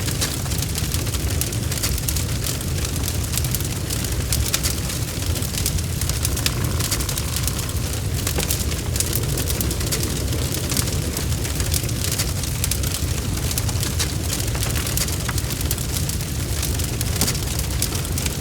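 A wood fire burning in a fireplace: steady crackling with frequent small pops over a low, constant rumble.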